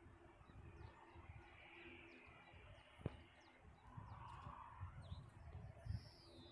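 Faint outdoor ambience: small birds chirping in the distance over a low, uneven rumble, with a single sharp click about three seconds in.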